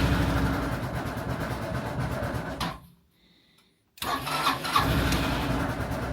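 Honda Helix scooter's 250 cc single-cylinder engine being cranked on the electric starter in a freezing cold start, in two bursts with a short pause between, without catching; it needs more fuel to start.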